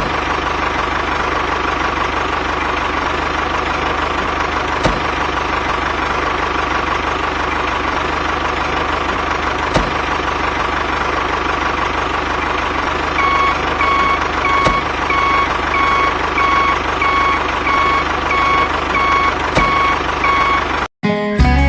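Steady engine idling, like a tractor or truck. About two-thirds of the way through, a reversing alarm starts beeping evenly, about one and a half beeps a second. Near the end it cuts off suddenly into music.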